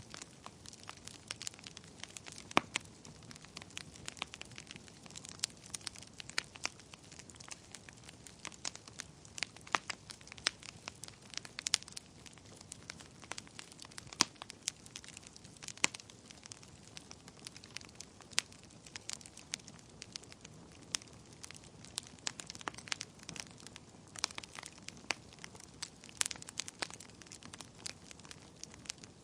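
Wood fire burning in a fireplace: a steady low hiss of flames with frequent irregular sharp crackles and pops of burning logs, a few louder pops standing out.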